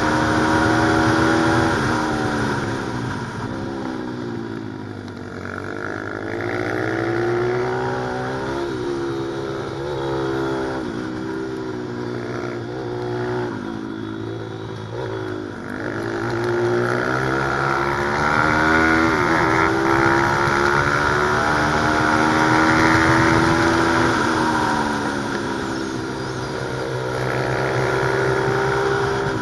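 Pit bike engine revving hard, its note climbing and falling over and over as the bike accelerates and slows, with several quick dips in between.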